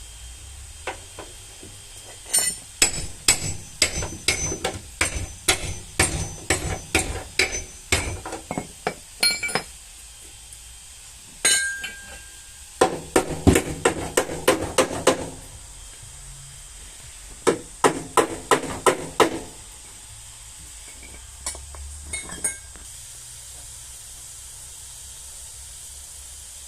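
Hammer tapping on a car's sheet-metal body panel, runs of quick ringing metal strikes at about three a second, broken by pauses and ending with a few lighter taps.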